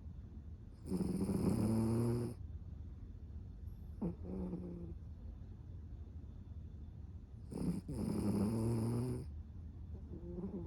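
Cavapoo dog snoring loud: two long snores about six seconds apart, each well over a second, with a shorter, fainter snore between them and another starting near the end.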